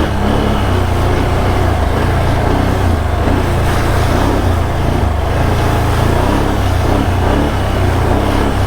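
Can-Am Outlander ATV engine running steadily while riding, a loud, even low drone with little change in revs.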